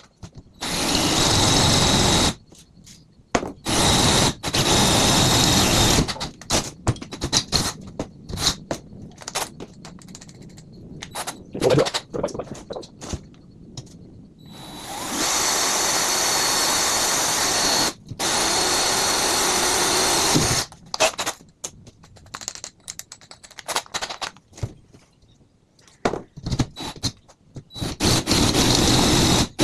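Electric power drill boring through the metal of a dirt bike swing arm in stop-start runs, its motor whining high under load. The longest run lasts about five seconds, roughly halfway through, broken by a short stop; light clicks and knocks fill the pauses.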